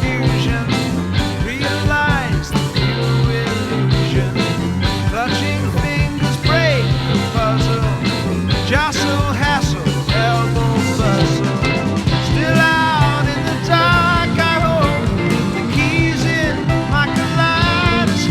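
Instrumental passage of 1960s British psychedelic rock: a full band playing over a steady drum beat, with lead notes that bend up and down in pitch.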